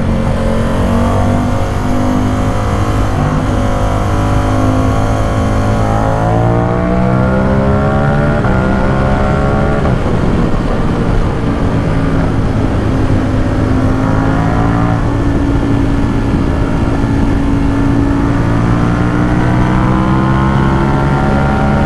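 Ducati Supersport 950 S's 937 cc L-twin engine and exhaust under way. The note climbs steadily in pitch for several seconds under acceleration, drops sharply about ten seconds in, then settles into a steadier note that rises slowly.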